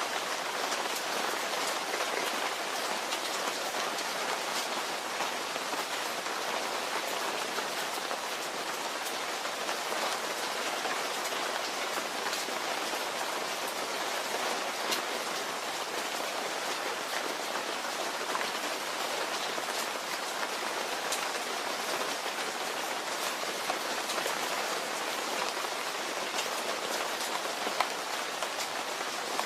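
Steady rain with close drops pattering on a surface, individual drop ticks scattered through an even hiss.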